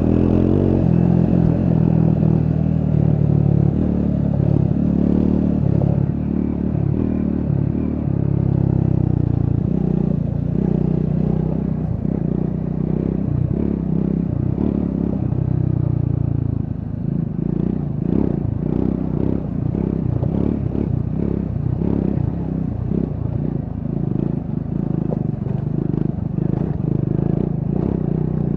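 Triumph Scrambler 400 X's single-cylinder engine running under way, its pitch rising and falling with throttle and gear changes. In the second half a steady stream of short clattering knocks runs over the engine note.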